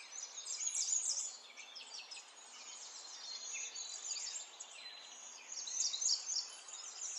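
Small birds chirping together: many quick, high chirps, lots of them falling in pitch, over a faint background hiss.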